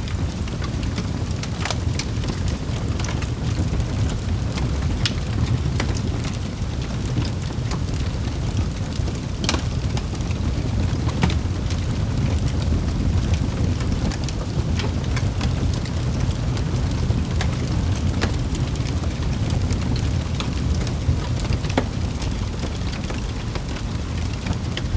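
Wood fire crackling in a fireplace: a steady low rumble of flames with scattered sharp pops and snaps, a few each second.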